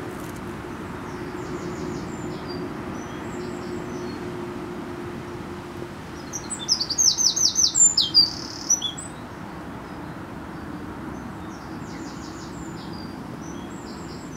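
Small birds singing: a loud run of about ten rapid, high, chirping notes about halfway through, with fainter song phrases before and after. A steady low hum and a noisy background sit underneath.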